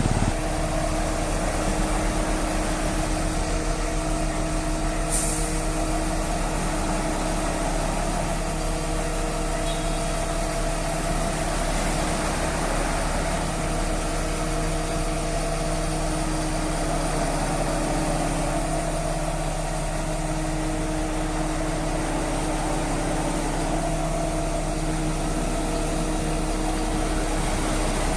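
Mobile crane's diesel engine running steadily under work. A short hiss about five seconds in.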